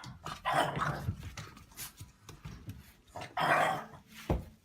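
A dog vocalising in rough bursts, loudest about half a second in and again past three seconds, with a short thump near the end.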